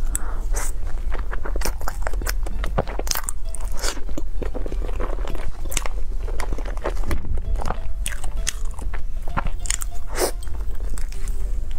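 Close-up eating sounds of biting into and chewing a small mousse cake cube: a quick run of short mouth clicks and smacks, over a low steady hum.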